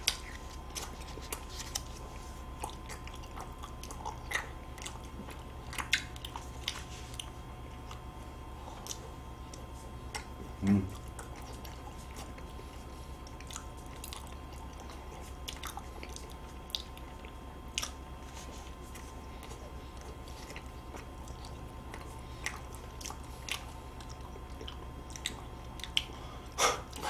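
Close-miked biting and chewing of chocolate-wafer ice cream sandwiches: scattered soft wet smacks and clicks over a faint steady hum, with one short low sound about ten seconds in.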